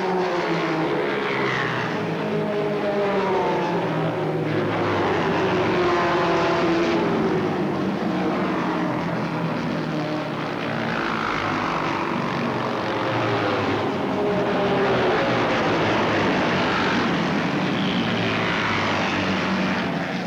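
Racing motorcycle engines running hard, several engine notes rising and falling over one another.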